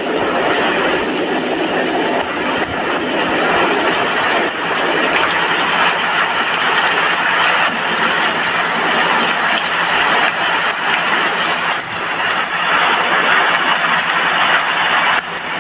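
Steady heavy rainfall: a dense, even hiss with the fine patter of drops, swelling a little in the second half.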